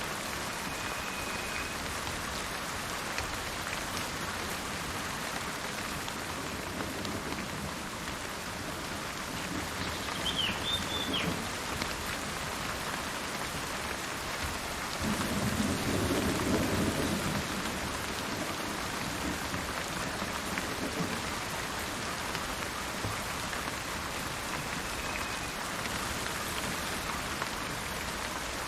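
Steady rain falling, with a low roll of thunder about ten seconds in and a longer, louder rumble from about fifteen to eighteen seconds. A brief high bird chirp sounds near the first roll.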